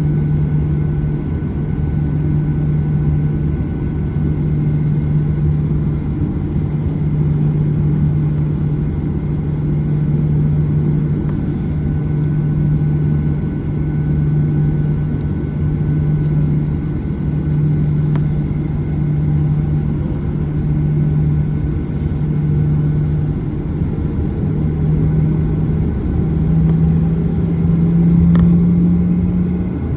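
Steady cabin noise of a Boeing 737-900ER: jet engine and airflow noise with a held hum that rises slightly in pitch near the end.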